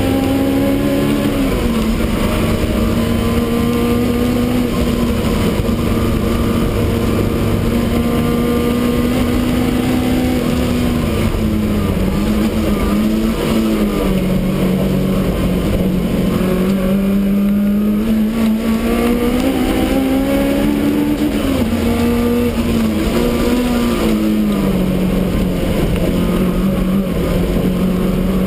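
Supercharged BMW E30 race car's engine running hard, heard from inside the stripped cabin; its pitch holds, then dips and climbs again several times through the corners.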